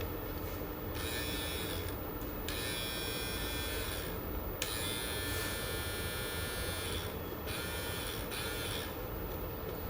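Small battery trimmer's motor buzzing in four stretches of one to two seconds with short breaks between, the trimmer now working after repair.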